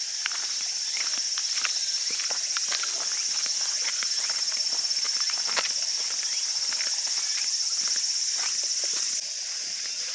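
Steady high-pitched chorus of summer insects, with irregular footsteps on the ground beneath it. The insect sound drops in level suddenly about nine seconds in.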